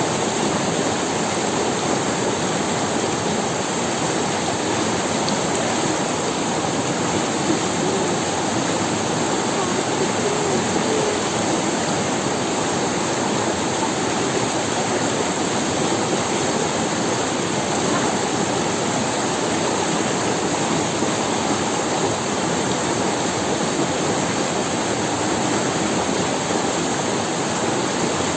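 Forest river rushing over stones, a steady, even water noise.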